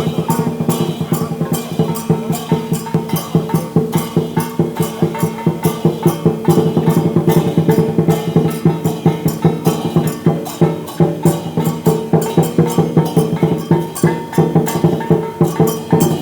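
Chinese dragon dance percussion: drum, cymbals and gong playing a steady, fast, even beat, with the cymbal clashes ringing over the drum and gong.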